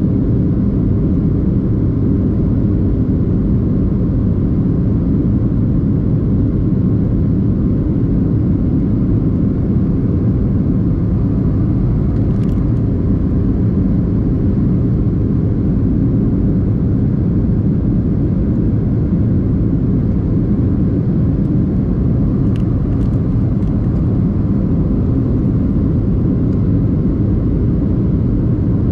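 Steady loud low rumble of a Boeing 737-800 airliner, its engines and airflow droning evenly, with a few faint clicks around the middle and near the end.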